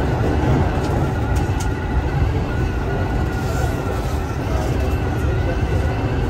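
Kintetsu 2800 series electric train running along the line, with a steady rumble of wheels and running gear heard from the front of the train.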